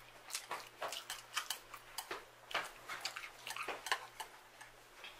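Someone eating spicy instant noodles close to the microphone: irregular wet mouth clicks and smacks of chewing.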